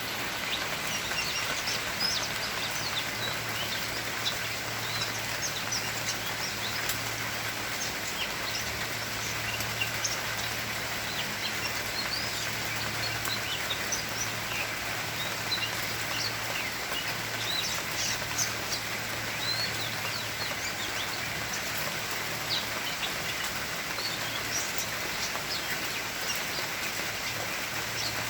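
Many short bird chirps, scattered throughout, over a steady hiss of rain and a low hum.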